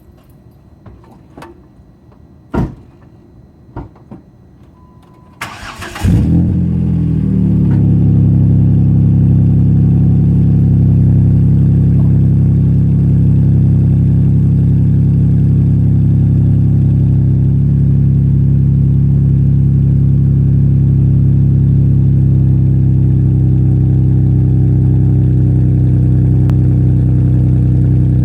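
A few clicks and knocks, then a 2011 Jeep Wrangler's 3.8-litre V6 with an MBRP off-road exhaust cranks briefly and catches about six seconds in on a cold start. It then idles steadily with a deep exhaust note.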